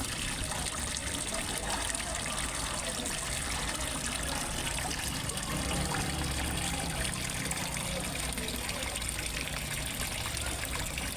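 Fish pond water trickling and splashing steadily.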